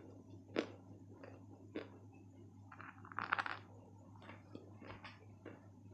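Close-miked crunching and chewing of dry white clay: sharp crunches about half a second and two seconds in, a burst of crackling crunches around the middle, then softer chewing.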